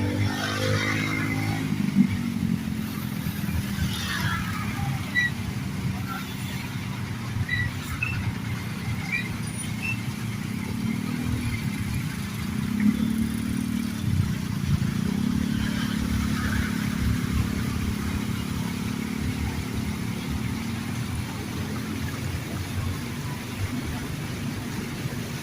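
A motor vehicle engine running steadily, its pitch dipping and rising a few times partway through.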